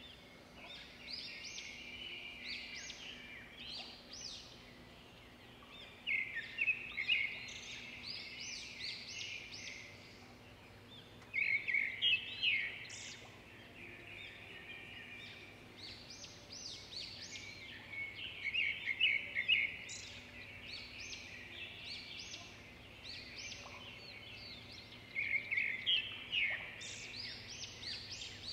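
Birdsong: a bird singing rapid, high twittering phrases, each a couple of seconds long, repeated every five or six seconds. A faint steady low hum runs underneath.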